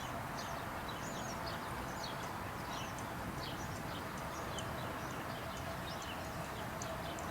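Small birds chirping: many short, quick high calls, one after another, over a steady outdoor background hum.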